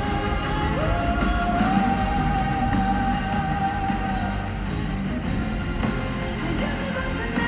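Symphonic metal band playing live in an arena, heard through a phone's microphone: guitars, drums and keyboards, with one long held melody note that slides up into place about a second in and holds for about three and a half seconds.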